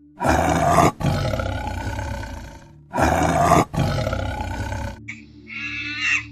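Tiger roaring twice, each roar about two seconds long, loudest at the start and then trailing off.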